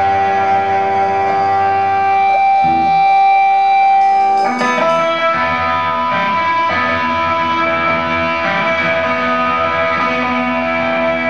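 Live rock band playing, led by an electric guitar through effects. The guitar holds a sustained chord, then moves to new notes about four and a half seconds in.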